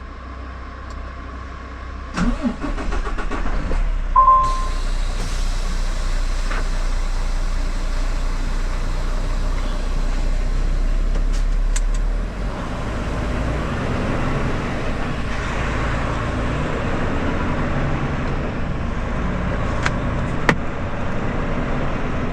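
Semi truck's diesel engine running, a steady low rumble that changes character about halfway through. A short electronic beep sounds about four seconds in.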